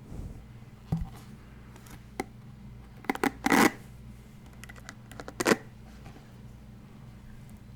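Scattered sharp taps and clicks on a hard object close to the microphone, with a short scratchy rustle about three and a half seconds in, then a last click near the middle.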